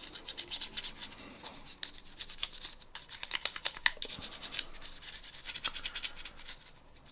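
Scrubbing a Glock pistol part wet with Hoppe's gun cleaner: a run of quick, scratchy back-and-forth strokes, thickest and loudest in the middle.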